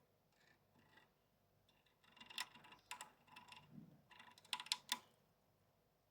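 A goldfinch-canary hybrid pecking and nibbling at a piece of apple: a quick irregular run of small beak clicks and taps, bunched between about two and five seconds in.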